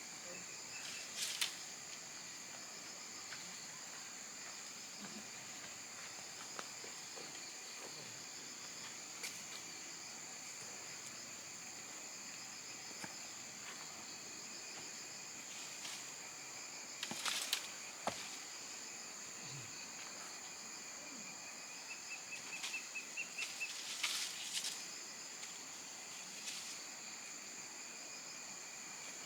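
A steady, high-pitched chorus of insects trilling without a break. A few short knocks and clatters come through about a second in, again around 17 seconds, and as a run of small rattles around 22 to 25 seconds.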